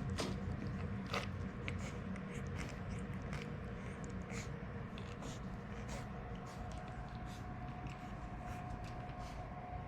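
French bulldog puppy's breathing sounds: a steady low rumble with irregular small clicks and smacks scattered through, over a faint steady hum.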